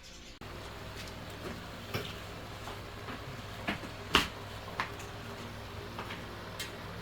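Scattered sharp clicks and taps of tools and metal parts being handled while working on a rice milling machine, the loudest about four seconds in, over a low steady hum.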